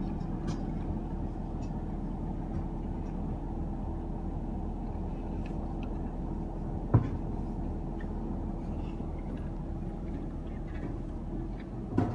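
Garbage truck engine running steadily with a constant hum, a single sharp knock about seven seconds in and a metallic clatter near the end.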